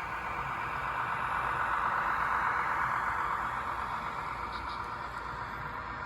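HOn3 model train running past: a steady rolling hiss from the wheels and motor that swells about two seconds in and then fades as it moves on.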